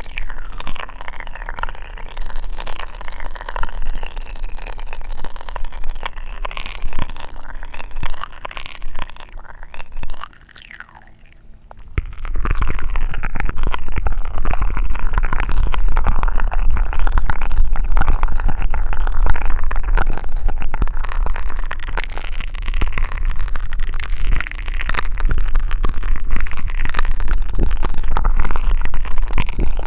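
Close-miked ASMR mouth sounds: sucking and gurgling through a straw and popping candy crackling in the mouth. About twelve seconds in, the sound turns louder, with dense fine crackling over a low rumble.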